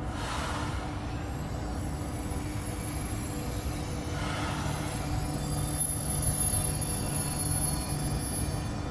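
Electric passenger train rolling slowly into the station: a steady low hum with a faint, high, thin tone from about three seconds in. Two short rushing noises come at the start and about four seconds in.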